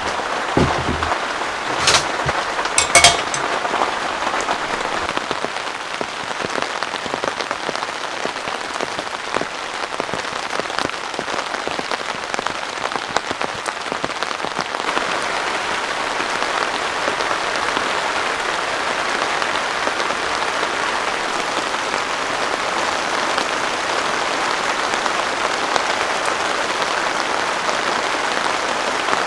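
Heavy rain falling steadily in a dense, even hiss, with a few sharp knocks about two and three seconds in.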